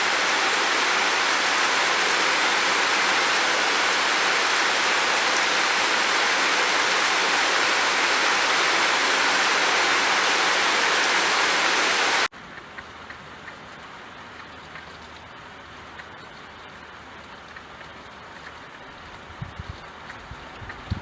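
Steady heavy rain, a loud, even hiss, which cuts off abruptly about twelve seconds in. Much fainter rain follows with scattered light ticks, and low rumbling starts near the end.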